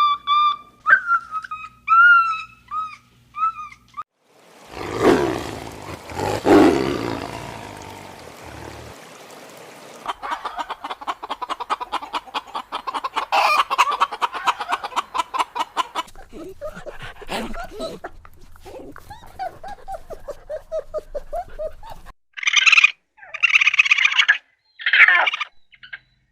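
A sequence of different animal calls, one after another: short high chirping calls, then two long harsh calls, then a rapid run of pulsing calls, and loud short calls near the end.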